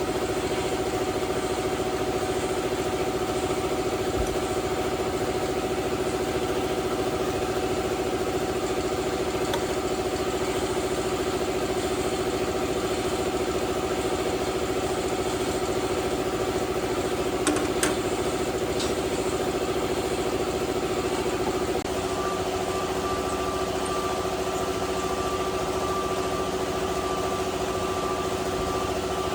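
An engine idling steadily, with a couple of brief clicks a little past halfway; its tone shifts slightly about three-quarters of the way through.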